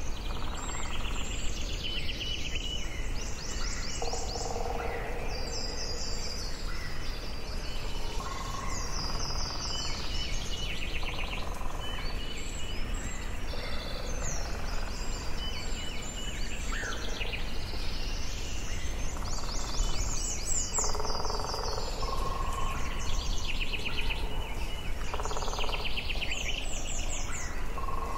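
Forest birdsong: several birds sing overlapping phrases, fast high trills and chirps repeating every second or two, with lower warbled notes between them, over a steady low background noise.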